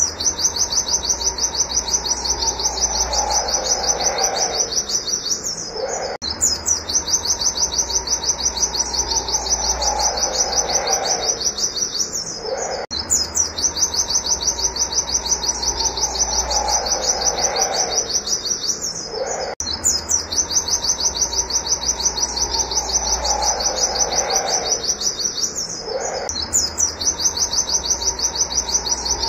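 White-eye (pleci) singing in rapid trains of high, repeated 'wit wit' notes, several a second, broken by short pauses. The same phrase recurs about every six and a half seconds, with a lower falling call and a steady low hum underneath.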